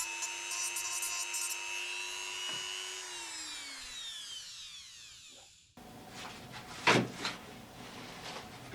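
A power tool's motor runs with a steady whine, is switched off about three seconds in, and winds down with its pitch falling. Then there are rubbing and handling noises on wood, with one sharp knock about seven seconds in.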